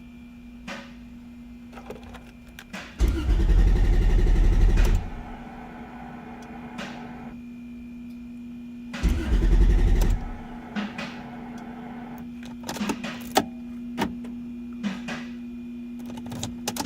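Car engine cranked by its starter twice, for about two seconds and then about one, without catching: a hot engine that cranks but won't start. A steady hum runs underneath, with scattered clicks between the attempts.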